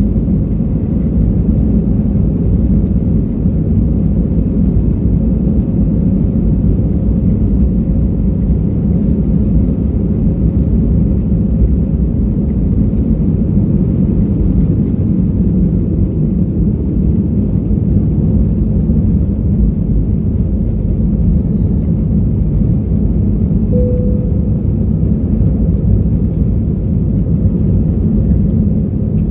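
Airbus A320's engines and airflow making a loud, steady low rumble during takeoff and climb, even throughout with no rise or fall.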